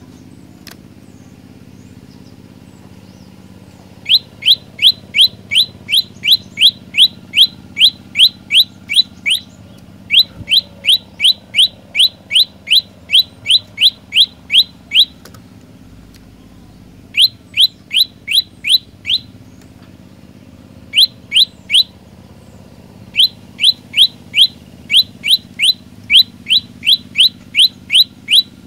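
Olive-backed tailorbird singing: bouts of loud, sharp, rising notes repeated about three a second. The bouts are broken by pauses of one to four seconds, the longest just after the start.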